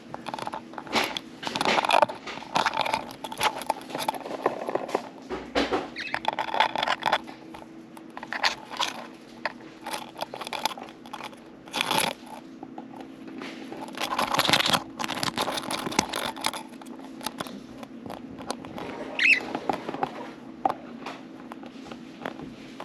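Budgerigars chattering and chirping in bursts, mixed with many small clicks and scratches, over a steady low hum. The chatter is busiest a second or two in and again around the middle, with a single clear chirp near the end.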